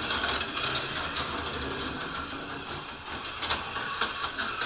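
HO-scale slot car running laps on plastic track: a small electric motor whirring steadily with the chassis clattering over the track, broken by scattered sharp clicks.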